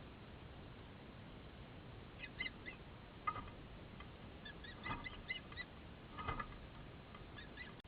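Bird calling: short, pitched chirps in small clusters, repeated several times over a steady background hiss.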